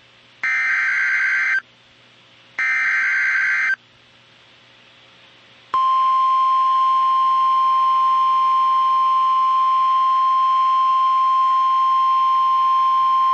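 Emergency Alert System header: two bursts of raspy digital SAME data tones, each about a second long, then after a gap of about two seconds a loud, steady single-pitch NOAA Weather Radio warning alarm tone. Together they signal the start of a new weather warning.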